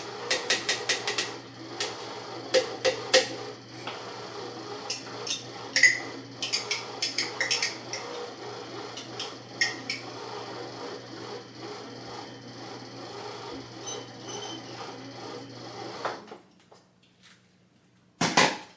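A small electric kitchen appliance's motor running with a steady hum and rapid, irregular clattering and knocking as it works food, switching off suddenly about 16 seconds in. One loud knock comes near the end.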